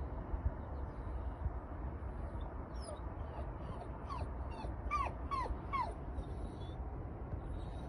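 An animal giving a run of about six short calls, each falling in pitch, around the middle, over a steady low rumble.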